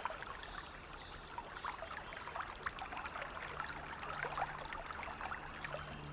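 Faint trickling, babbling water, full of quick little splashes, with a faint low steady tone fading in about halfway through.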